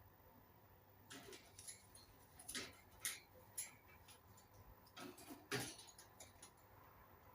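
Faint, irregular clicks and scratches from an Indian ringneck parrot's beak and claws, about a dozen short ticks spread over four to five seconds, with no calls.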